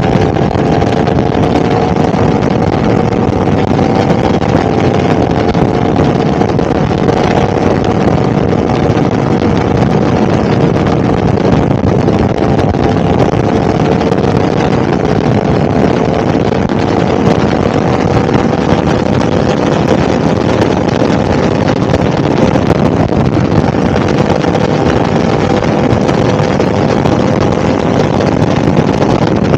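Yamaha R1's 998 cc crossplane inline-four running at a steady cruise, its pitch creeping slowly upward, with heavy wind rush on the microphone.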